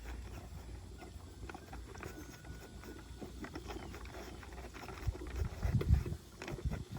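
Horses eating feed from buckets: faint irregular crunching and small knocks, with a cluster of louder soft thumps from about five seconds in.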